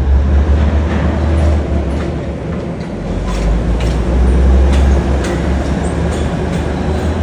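Subway work locomotive running on the track: a steady low engine hum and wheel rumble, with irregular sharp clicks of wheels passing over rail joints.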